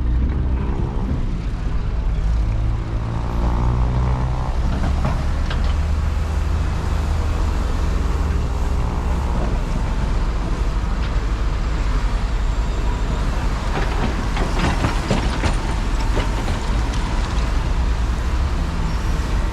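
Highway traffic with heavy vehicles passing, a steady low rumble. In the first few seconds a large vehicle's engine goes by, its pitch sliding as it passes.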